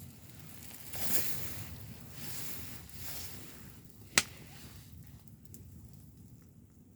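Campfire: two soft whooshing swells of noise, then a single sharp snap about four seconds in.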